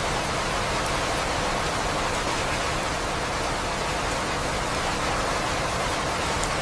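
Steady rain falling, an even dense hiss with no breaks or rise and fall.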